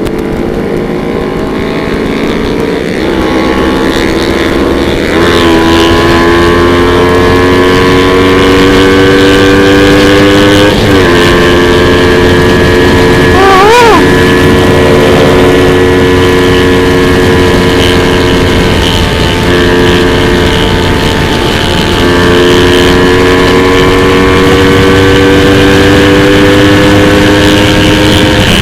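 Motorcycle engine running under way, its pitch climbing slowly in each gear with gear changes about 5, 11 and 22 seconds in and a short rev blip near the middle, over steady wind rush.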